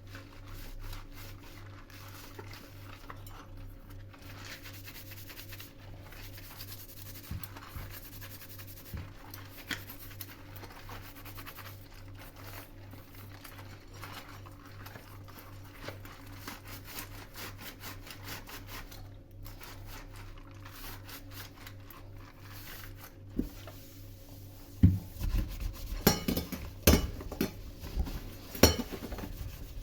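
Kitchen food preparation: a steady fine scraping or rubbing, then a cluster of sharp knocks and clatters near the end.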